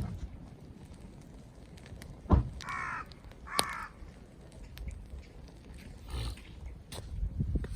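A crow cawing twice in quick succession about three seconds in, with a fainter call a few seconds later. A sharp knock comes just before the first caw.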